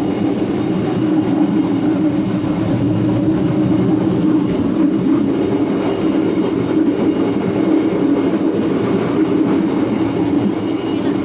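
Steady, loud running noise of a moving passenger train heard from the vestibule between carriages: wheels on the rails and the coach rumbling without letup.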